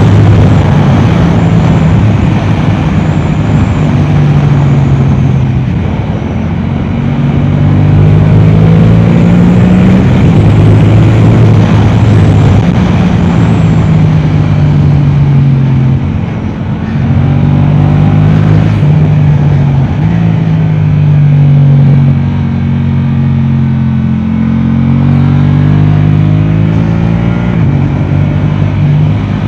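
Yamaha R7's 689 cc parallel-twin engine through an Akrapovic exhaust, run hard around a track. Its pitch climbs and steps up and down through gear changes, and it eases off briefly three times.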